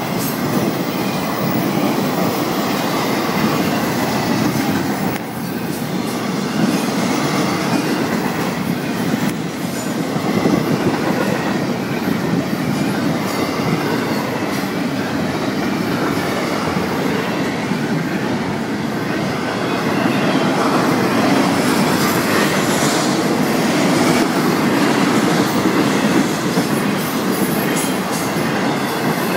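Freight cars of a long Florida East Coast Railway train rolling past, a loud steady rumble and clatter of steel wheels on rail.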